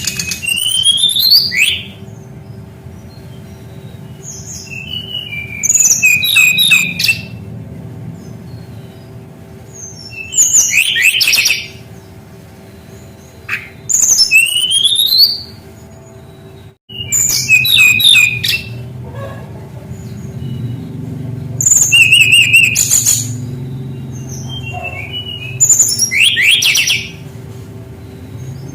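Brown-chested jungle flycatcher singing: about seven short phrases of rising whistles and quick trills, one roughly every four seconds, over a steady low hum.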